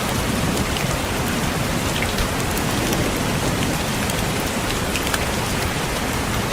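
Steady rain falling, with scattered individual raindrops tapping on a window pane over a continuous hiss.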